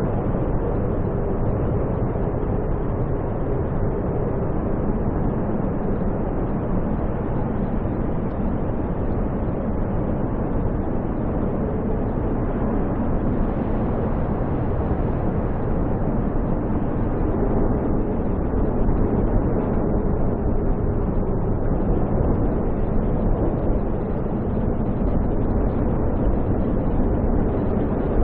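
Snowstorm wind roaring steadily, an even low rush with no breaks.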